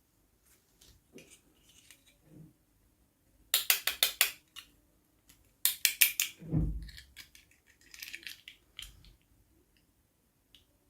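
Toy packaging being handled and opened: two bursts of rapid, crisp clicks and snips, about four and six seconds in, with softer rustles, taps and a couple of dull thumps around them.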